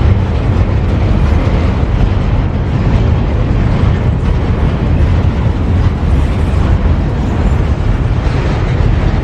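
Freight train rolling past at close range: a loud, steady, heavy rumble of wheels on rail.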